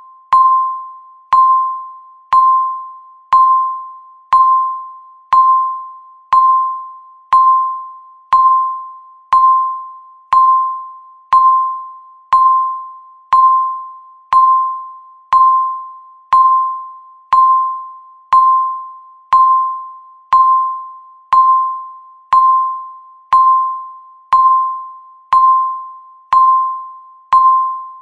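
Countdown timer's electronic tick sound marking each second: a short, clear pitched ping about once a second, each fading quickly before the next, in a steady even rhythm.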